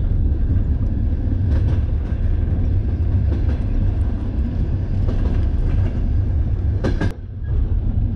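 1950s Soviet sleeper train carriage running along the track: a steady low rumble with scattered rattles and knocks, and two sharp clacks close together about seven seconds in.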